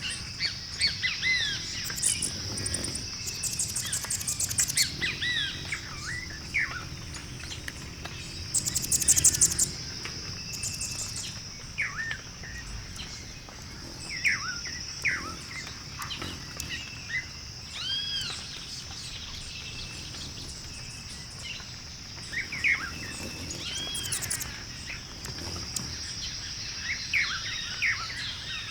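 Mixed birdsong ambience: many birds chirping and calling with short arching notes, with bursts of rapid trills, the loudest about nine seconds in, over a steady high hiss.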